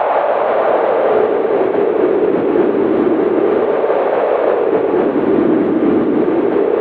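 Howling winter wind: a steady rushing noise whose pitch sinks, wavers and rises again toward the end.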